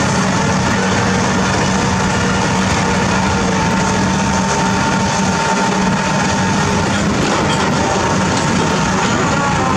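Heavy diesel construction machinery running steadily, with a constant low hum and a steady higher whine.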